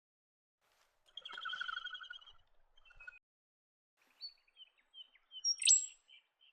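Birds calling: a pulsing trill about a second in, a short note, then a run of scattered high chirps with one sharp, loud note near the end.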